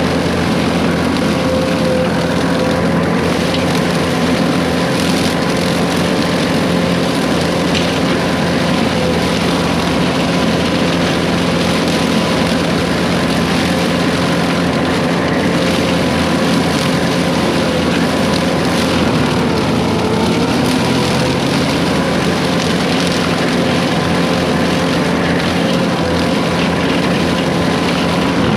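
Case 140 excavator's diesel engine running steadily, with an even whine over it.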